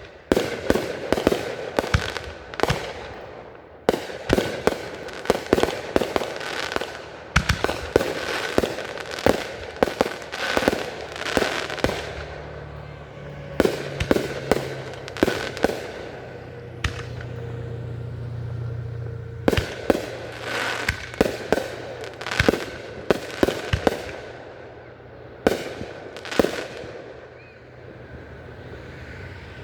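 Consumer fireworks going off in rapid volleys of sharp bangs and crackles, easing into a brief lull about halfway through and again near the end.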